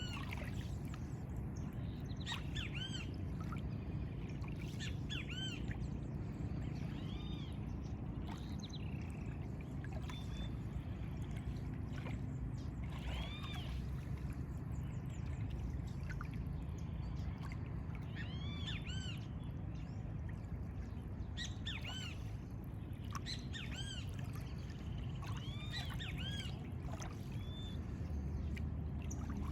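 Several birds calling with short, arching chirps, repeated in loose clusters over a steady low rush of background noise.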